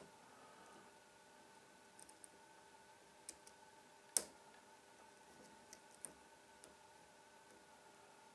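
Faint, scattered metallic clicks of a lock pick working the pins of a Trioving 5632 padlock under tension. The sharpest click comes about four seconds in, and a faint steady hum runs underneath.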